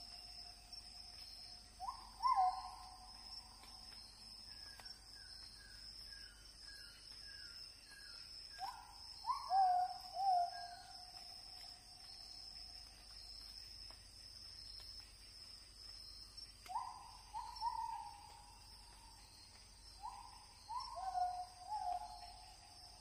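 Forest birds calling: clear hooting notes, each sweeping up sharply and then held, in groups of two or three every several seconds, with a quick run of short higher notes about five seconds in. A steady high insect drone runs underneath.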